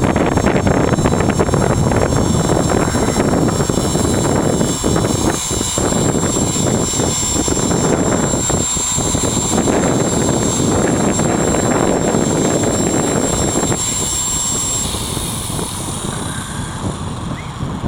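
Small electric RC helicopter (Gaui Hurricane 255) flying, its rotor noise mixed with a steady high-pitched whine from the motor and gears, in heavy wind buffeting the microphone. The whine stops near the end and the sound eases off.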